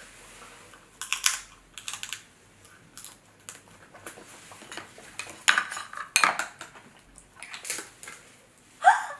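King crab leg shells cracking and crunching as they are broken open by hand, a string of sharp clicks and crackles, with a short vocal sound near the end.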